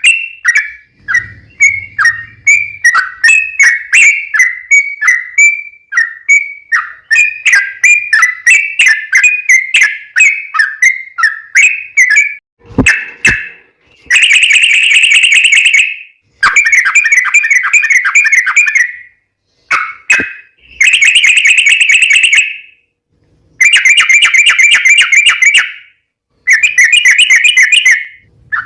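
Yellow-vented bulbul (trucukan) singing: a quick run of separate bubbly chirps, then after a couple of sharp clicks it switches to long bursts of rapid trilling, five of them with short breaks between. This is the long-trill 'ropel' song used to lure other bulbuls into answering.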